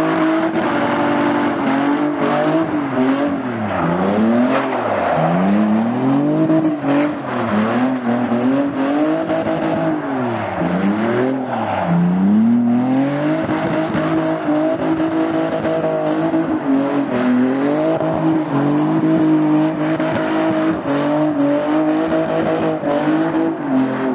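Car engine held at high revs for a long stretch, with the revs dropping and climbing again several times, over a continuous hiss of tyre noise, as in a burnout or drift.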